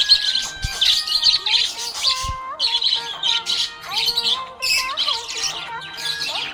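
Budgerigars chirping and chattering in rapid, continuous bursts, over a stepwise instrumental melody.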